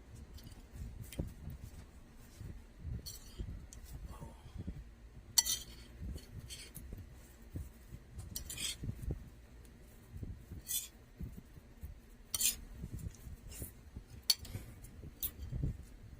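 Cutlery clinking and scraping against a plate as food is scooped and mixed, in scattered strikes every second or two, the sharpest about five seconds in.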